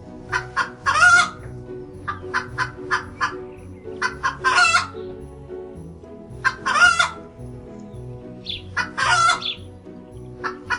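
Chicken cackling: runs of quick short clucks, each ending in a longer drawn-out squawk, four times over.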